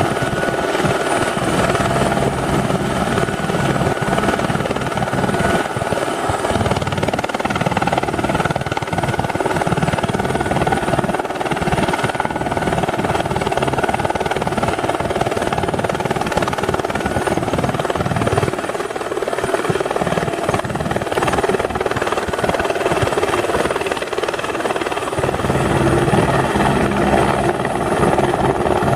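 Eurocopter AS350 Esquilo single-turbine helicopter in flight: continuous rotor and turbine noise with a steady high whine. Near the end the whine rises slightly in pitch.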